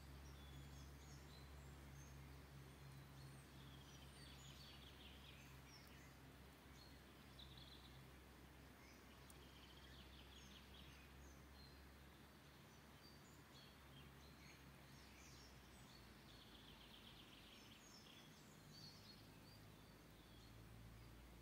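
Songbirds singing faintly, with short chirps and trilled phrases recurring every few seconds, over a steady low hum.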